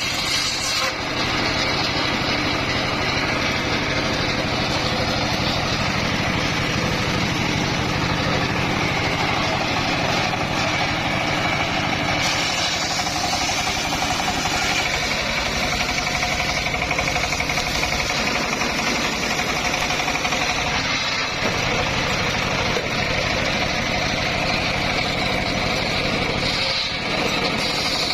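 Engine of a homemade circular saw rig running steadily.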